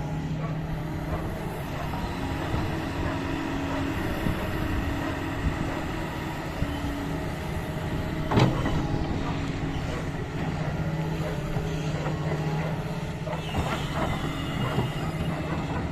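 Doosan DX225 excavator's diesel engine running steadily while it works sand, with one loud knock about halfway through and a few lighter knocks near the end.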